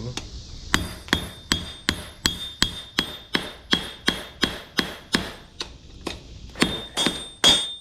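Blacksmith's hammer striking a hot railroad-spike axe head on an anvil in a steady rhythm of about three blows a second, each blow with a short metallic ring.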